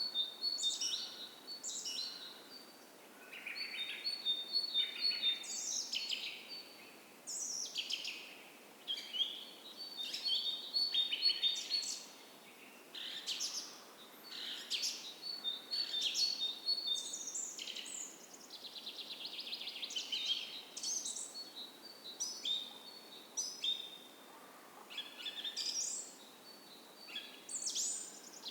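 Dawn chorus of several songbirds: overlapping short chirps, sweeping whistled phrases and fast trills, one bird after another, over a faint steady hiss of a creek.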